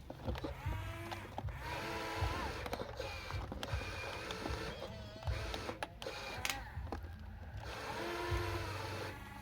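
Small electric motors of a radio-controlled toy excavator and dump truck whining in short runs, the pitch rising and falling as they start and stop, with scattered plastic clicks over a low hum.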